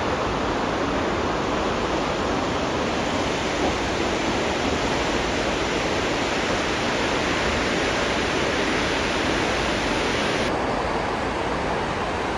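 Brandywine Falls, a tall waterfall, giving a steady rush of falling water.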